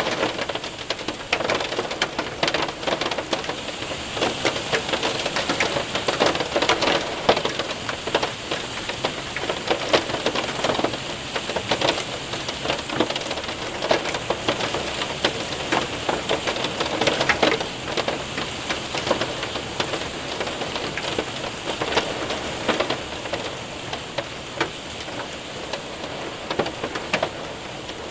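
Hail and heavy rain hitting a window and roof: a dense patter of sharp individual taps over a steady hiss, growing a little quieter near the end.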